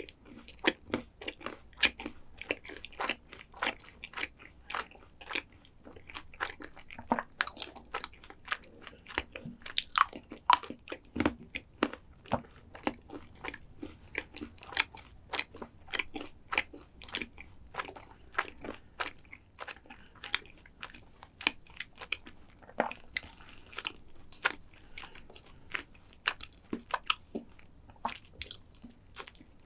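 Close-miked chewing of crunchy chocolate dessert: a quick, uneven run of sharp crunches and bites, several a second.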